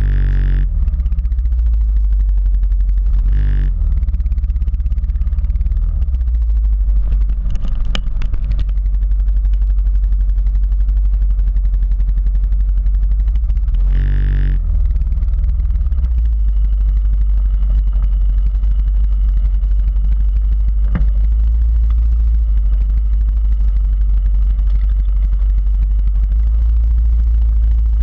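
Quad bike engine running during an off-road ride, under a heavy, steady low rumble, with a few short higher-pitched surges and scattered clatter.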